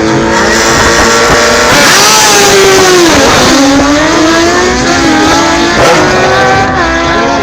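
Drag-racing sport motorcycle engines accelerating hard at high revs, the engine pitch climbing, falling sharply about three seconds in, then climbing again and dipping once more near the end, like gear changes.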